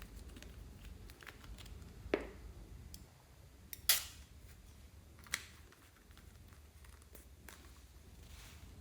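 Scattered small clicks and taps of hands handling slime-making containers and tools, with three louder sharp clicks about two, four and five seconds in.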